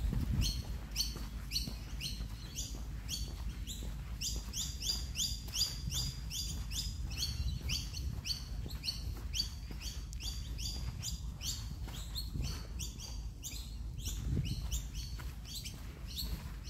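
Birds chirping in a fast, unbroken run of short high notes, about four a second, over a low rumble.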